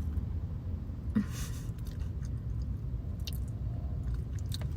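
A person chewing a mouthful of crispy-crusted chocolate pie, with a short crackly crunch about a second in and a few small clicks after it. A low steady hum runs underneath.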